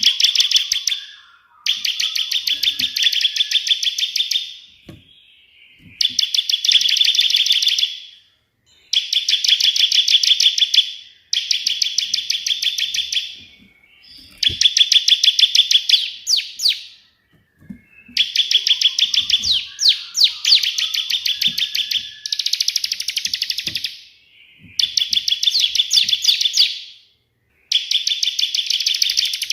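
Bar-winged prinia (ciblek) singing in rapid, dry trills of fast repeated notes in the 'tembakan' (shooting) style. The bursts last two to three seconds and come about ten times, with short pauses between them.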